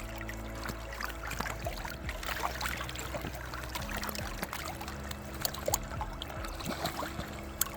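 River water splashing and trickling, with many small irregular clicks and splashes, over a low steady drone.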